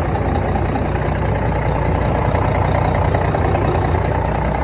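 1995 Mack CH613 truck's diesel engine idling steadily, running clean.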